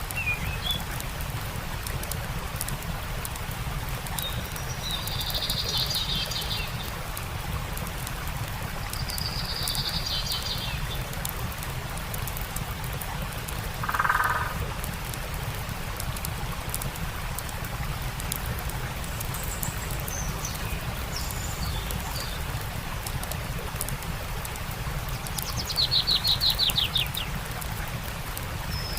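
Steady rush of a flowing stream with fine crackling from a campfire, and birds calling over it: a trill about five seconds in and again around ten seconds, a lower, louder call near fourteen seconds, and a rapid trill near the end.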